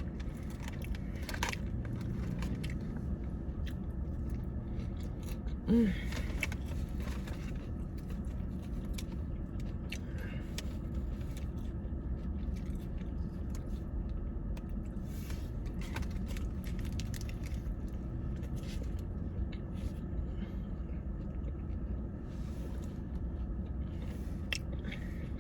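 A person chewing and biting food close to the microphone, with scattered small mouth clicks, over a steady low hum.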